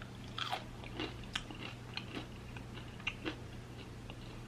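Close-up eating sounds of a sauced fried chicken wing: a string of short, crisp crunches and mouth clicks as it is bitten and chewed.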